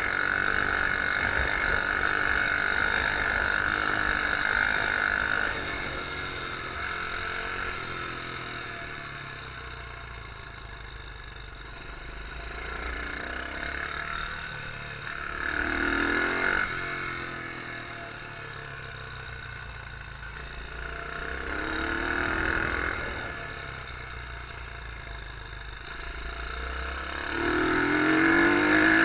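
Beta R150 pit bike engine heard on board while riding. It is held high in the revs for the first five seconds, then falls away and climbs again in three rev peaks about six seconds apart, the last and loudest near the end.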